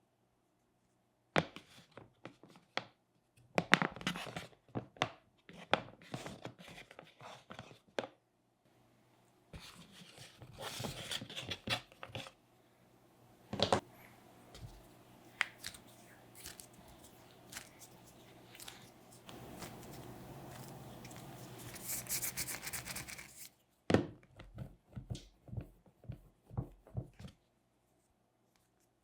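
Hands working modelling clay close up: pulling, pressing and rubbing the clay, scraping it with a tool, with irregular small clicks and knocks. A longer stretch of steady rubbing comes a little past the middle.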